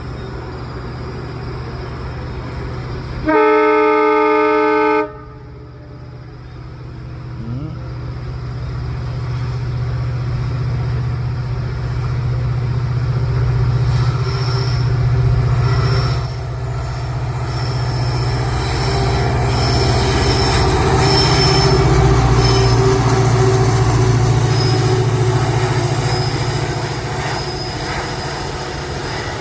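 WDG 4D diesel-electric freight locomotive working a loaded goods train, its engine humming steadily. About three seconds in it gives one horn blast of nearly two seconds. The engine grows louder as the locomotive passes, and in the second half the BOXN wagons rumble by with high-pitched wheel squeal.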